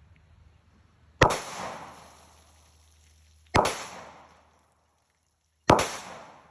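Three gunshots from a .40 S&W firearm loaded with 180-grain Golden Saber hollow points, spaced about two seconds apart, each with a short echoing tail.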